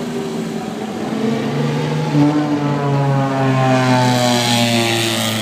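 A vintage car's engine accelerating, its note rising slowly and steadily, with the sound growing brighter and harsher near the end.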